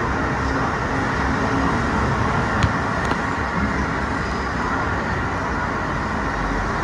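Steady running noise from a Disneyland tram. Two short sharp clicks come about halfway through.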